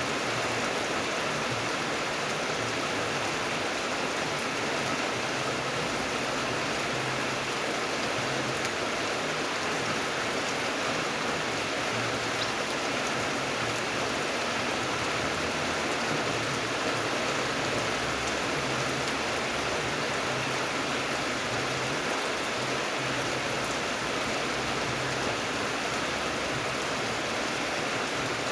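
Steady rain falling, an even, unbroken hiss of many drops with no pauses or changes.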